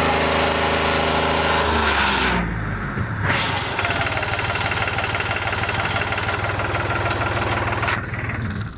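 Tractor diesel engine running; its note drops about two to three seconds in as it comes under load, then it runs on steadily with a rapid low pulsing before cutting off sharply.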